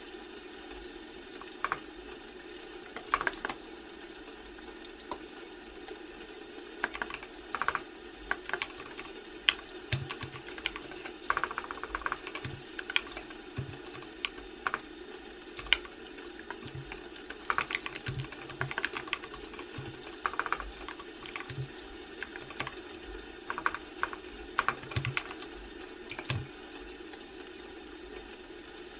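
Computer keyboard typing in irregular bursts of keystrokes with short pauses between them, over a steady low background hum.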